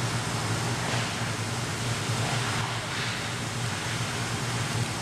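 Ice rink ambience during a hockey game: a steady low hum under an even hiss, with a few faint brief swishes.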